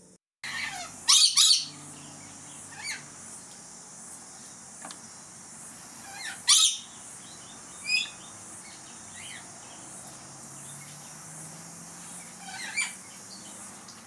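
Birds calling: loud, harsh screeches a little over a second in and again at about six and a half seconds, with shorter chirps between them.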